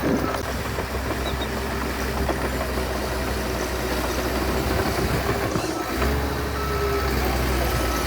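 Heavy earthmoving machine's diesel engine running steadily with a low drone, dipping briefly about six seconds in.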